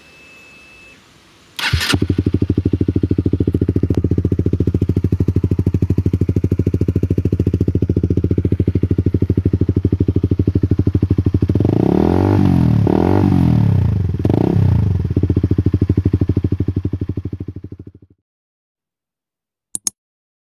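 Honda CBR sport motorcycle with an aftermarket racing exhaust starting up and idling with a loud, even exhaust pulse, then revved in three quick blips before settling back to idle; the sound fades out near the end.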